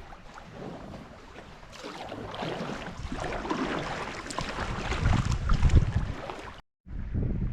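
Water splashing and sloshing around a kayak, with wind rumbling on the camera microphone, strongest about five seconds in. The sound drops out completely for a moment near the end.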